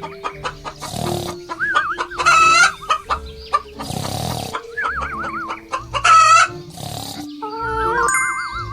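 Chickens clucking and a rooster crowing in a series of short pitched calls, several with a warbling pitch, over light background music with held notes.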